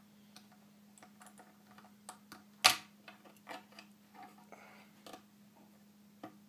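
Lego bricks clicking as pieces are handled and pressed together, a scatter of small light clicks with one sharp snap about two and a half seconds in. A faint steady low hum runs underneath.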